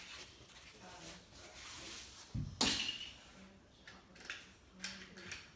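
Small die-cast toy cars and a plastic track being handled: scattered clicks and knocks, with one loud clatter about two and a half seconds in.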